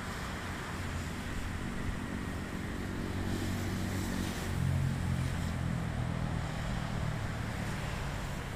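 Diesel locomotive engine running with a steady low drone that grows louder about halfway through, over a rushing, wind-like noise.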